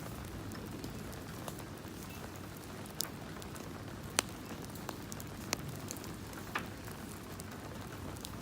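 Steady rain falling with a wood campfire crackling, four sharper pops standing out in the middle, about a second apart.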